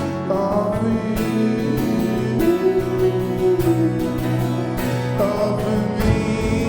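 Live worship band playing, with guitar carrying the music.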